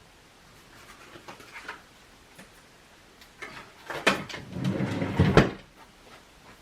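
Rustling and handling of craft supplies on a work desk, louder about three and a half seconds in and ending with a sharp knock.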